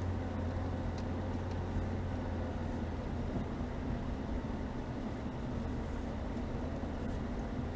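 Chevrolet Niva's four-cylinder petrol engine running steadily at about 2000 rpm in second gear while the car drives slowly along a snowy track.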